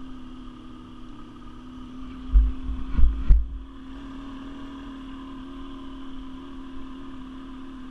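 Quad bike engine idling steadily. A few low thumps and a sharp knock come about two and a half to three and a half seconds in.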